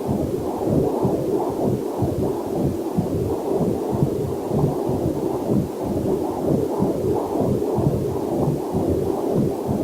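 Heartbeat picked up by a fetal Doppler monitor: a fast, even run of whooshing pulses, with a faint waterfall hiss mixed in underneath.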